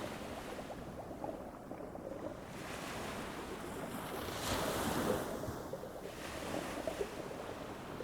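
Ocean surf washing onto a beach, a steady rush that swells with a wave breaking about four and a half seconds in and then eases off.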